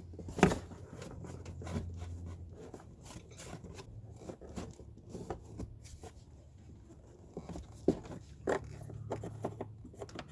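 Hands fitting parts in a truck's engine bay: scraping and rustling with a few sharp clicks and knocks, the loudest about half a second in and two more near the end.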